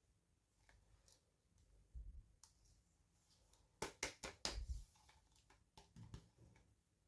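Faint handling sounds of small plastic toys and packaging being unboxed by hand: scattered light clicks and rustles, with a quick cluster of sharper clicks about four seconds in.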